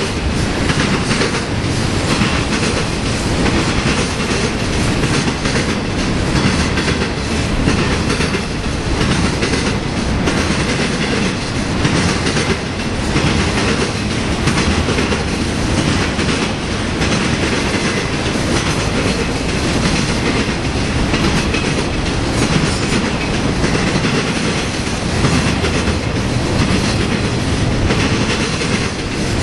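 Steel wheels of a BNSF intermodal train's trailer-carrying flatcars rolling steadily past, a continuous rumble with a running series of wheel clicks.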